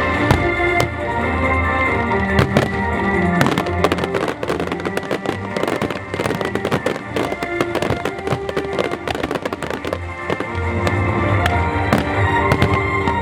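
Aerial fireworks bursting and crackling in quick succession, thickest through the middle, over music.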